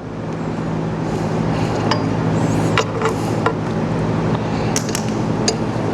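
A steady low hum, with a handful of sharp light clicks and clinks from metal pump parts and packing seals being handled as the packings are slid onto the pump shaft.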